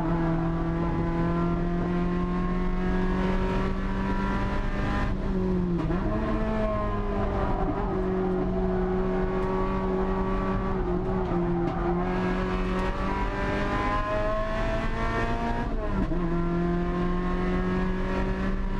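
Mazda MX-5 Miata (NC) with a swapped-in 2.5-litre four-cylinder engine running hard at high, steady revs, heard from inside the cabin, with a brief dip in engine pitch about six seconds in and another near sixteen seconds.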